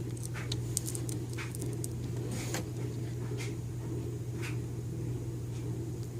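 Light clicks and rustles of small parts being handled, scattered irregularly over a steady low hum.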